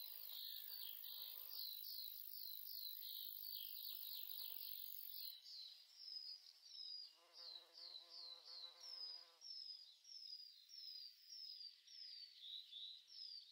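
Faint, steady insect chirping: a short, high-pitched, falling chirp repeated about two to three times a second, with faint distant voices underneath at times.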